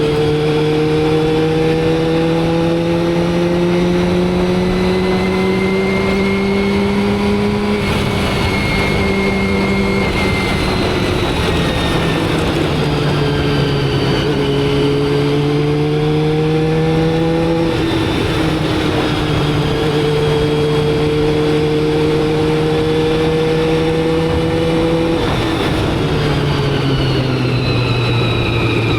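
Motorcycle engine running under way, its pitch climbing slowly and then dropping several times, as with throttle changes and gear shifts while riding, over steady road and wind noise.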